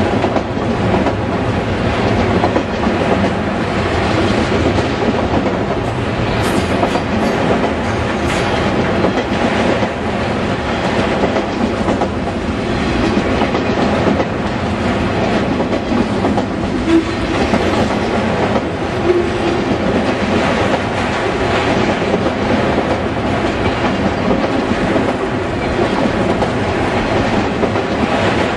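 Freight train of autorack cars rolling past at close range: steady wheel and rail noise with the clickety-clack of wheels over rail joints. A couple of brief, faint high squeals come about a quarter of the way in.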